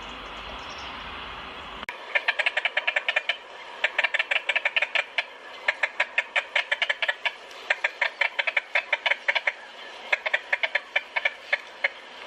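A bird calling in fast runs of short, sharp notes, about eight to ten a second, in bursts with brief pauses. This begins about two seconds in, after a steady outdoor hiss.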